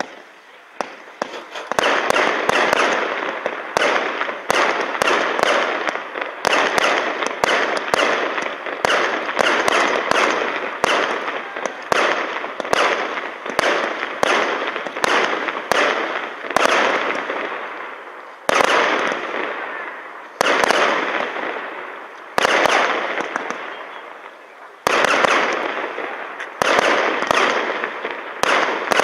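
A King Bird 'Mother's Day' 500 gram consumer fireworks cake firing: a steady run of sharp shots, about one a second, each trailed by a dense noisy wash, with a few short lulls in the second half.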